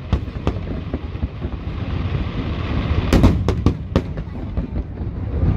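Aerial fireworks display: shells bursting in sharp bangs, a quick cluster of them about three to four seconds in, over a continuous rumble and crackle from the ongoing barrage.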